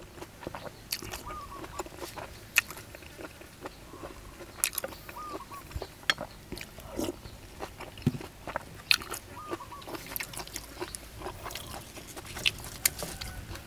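Close-miked chewing of tender but crunchy beef tripe, with wet mouth sounds and many short, sharp crunching clicks.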